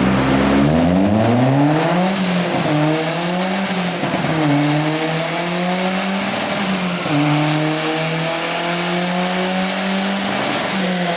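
Turbocharged Ford Focus four-cylinder engine accelerating hard under load. Its pitch climbs and then drops sharply several times as it shifts up through the gears, with a high turbo whistle over the middle of the run.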